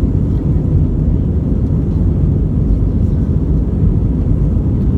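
Airbus A320 cabin noise during departure: the jet engines and rushing airflow make a steady, loud, deep rumble heard from inside the cabin.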